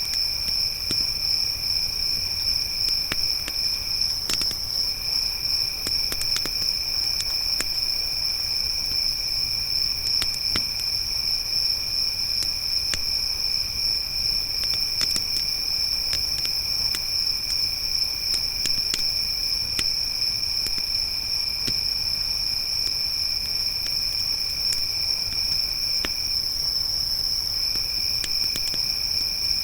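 Crickets trilling steadily at a high pitch, with a second, lower-pitched cricket that stops briefly twice. A campfire crackles underneath with scattered sharp pops.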